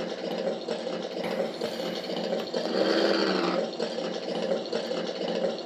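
Harbor Models sound module playing its recorded tug boat engine sound through a small speaker: a steady, rattly running sound that swells briefly about three seconds in.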